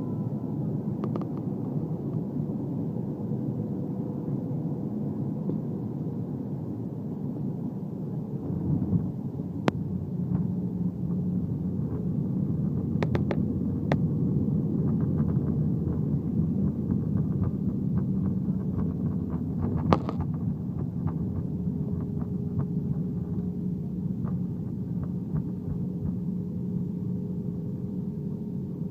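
Airbus A320-200 cabin noise during landing: a steady rumble of engines and airflow that gets deeper and louder about nine seconds in, with a few short knocks and rattles from the cabin, the sharpest about twenty seconds in.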